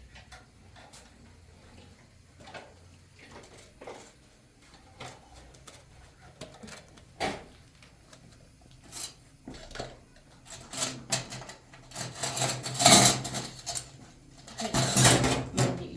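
Metal spoons and dishes clinking and clattering as they are handled. Sparse single clicks give way to busier, louder clatter in the last few seconds.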